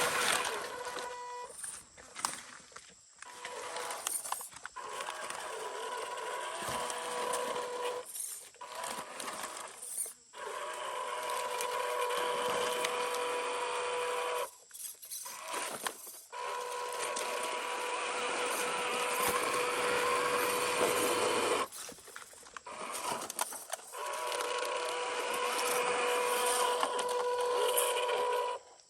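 Small electric motor and gearbox of a 1/12-scale MN128 RC Jeep crawler whining as it drives, with a steady high tone, stopping briefly several times as the throttle is let off and picking up again.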